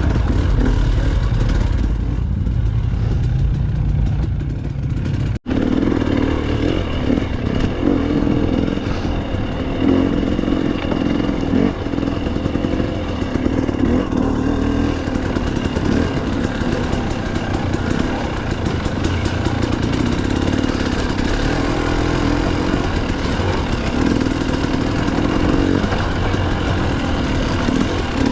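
Dirt bike engine running as the bike is ridden over trail, its speed rising and falling, with a brief sharp drop-out about five seconds in.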